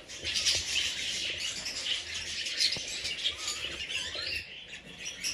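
A flock of budgerigars chattering, with many short, high chirps overlapping continuously.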